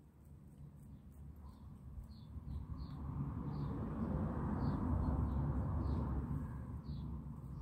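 Short high chirps of a small bird, repeated about eight times, over a low rushing noise that swells to a peak about five seconds in and fades again.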